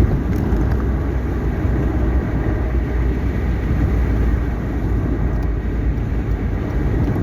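Steady rumble of a car on the move: engine and tyre noise with no change in speed.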